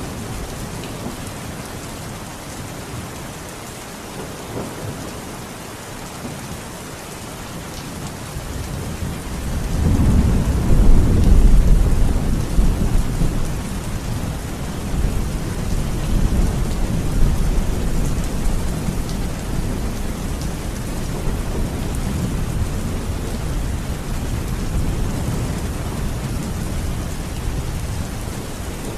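Steady rain with a long roll of thunder that builds about a third of the way in, is loudest shortly after, and slowly rumbles away.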